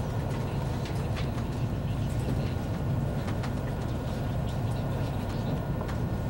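Steady running rumble of an ICE high-speed train heard from a passenger car, with a faint steady whine and scattered light clicks.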